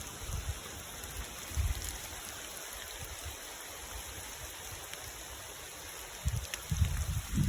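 Steady rushing hiss, like running water or wind in the open. Low thumps hit the microphone about two seconds in and again near the end.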